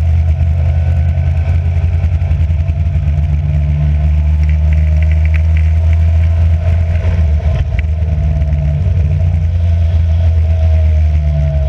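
Racing car engine running under load at fairly steady revs, its pitch drifting only slightly, with a few faint ticks near the middle.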